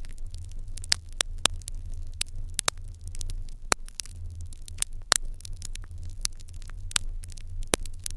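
Fire in an irori hearth crackling, with frequent irregular sharp pops over a steady low hum.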